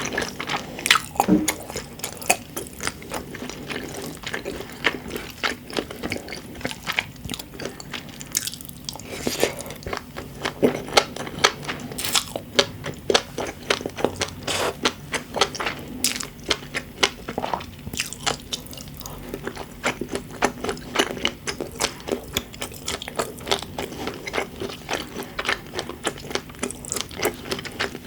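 Close-miked chewing and biting of food, with a dense, irregular run of small crisp pops and clicks.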